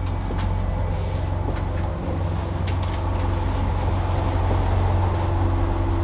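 Steady low rumble of the ARU Ressha diesel railcar, heard inside the carriage, with a few light knocks.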